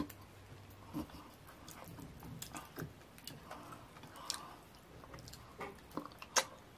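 Close-miked wet chewing and lip smacking as fufu with ogbono soup is eaten by hand, with short sticky clicks scattered throughout. One sharp mouth smack near the end is the loudest sound.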